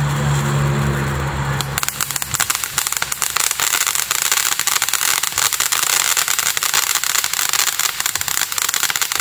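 Ground fountain fireworks spraying sparks with a steady hiss, over a low hum that stops about two seconds in. From there a dense, rapid crackling of many tiny pops carries on.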